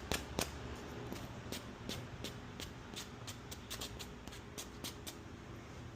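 Faint, irregular clicks and taps of small parts and tools being handled on a workbench, over a low steady hum.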